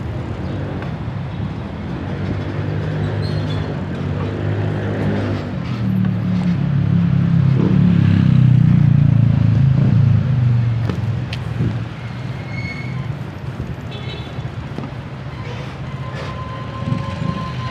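Road traffic heard close up from a bicycle, dominated by a large truck's engine running alongside. The engine grows louder from about six seconds in, peaks, and eases off after about eleven seconds.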